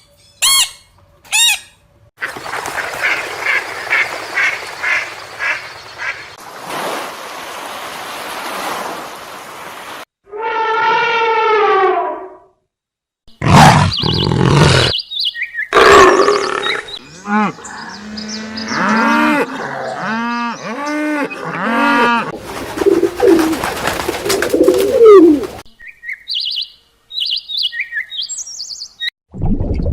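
A string of short animal calls from different animals, cut one after another, bird chirps among them.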